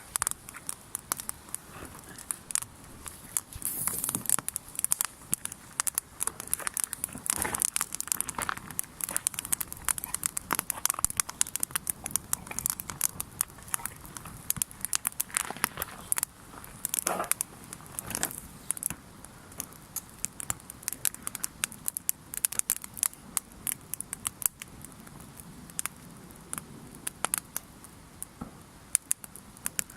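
Wood campfire crackling, with a steady scatter of irregular sharp pops and snaps, as the fire is catching. A few longer rustling swells come and go among the pops.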